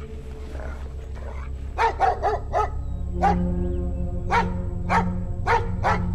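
Dog barking: a quick run of four barks about two seconds in, then single barks every half second to a second, over a low sustained musical drone.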